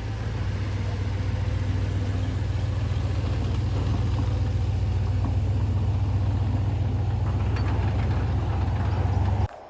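Vehicle engine running steadily, a low drone with a faint light tick about every second and a half, cutting off suddenly near the end.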